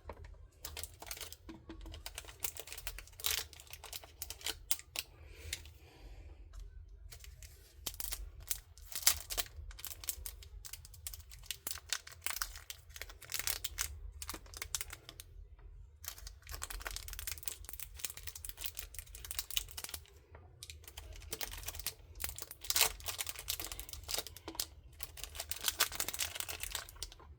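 Plastic packaging rustling and crinkling, with many light clicks and taps as small plastic art tools and packs are handled and dropped into the compartments of a storage container.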